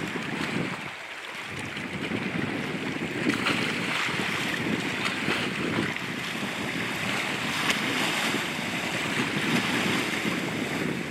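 Steady rush of water, with wind noise on the microphone.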